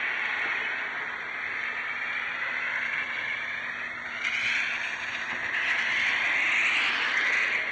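Steady rain falling, with the hiss of car tyres on the wet road as cars pass; the hiss swells twice in the second half, loudest shortly before the end.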